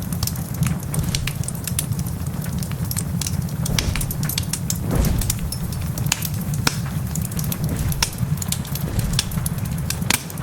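Wood fire in a fireplace crackling with frequent sharp pops over a steady low rumble, with heavy rain mixed in.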